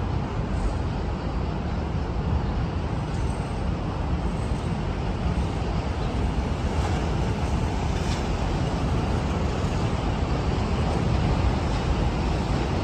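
Steady city street ambience: a continuous low traffic rumble with a fainter hiss over it, and no distinct events.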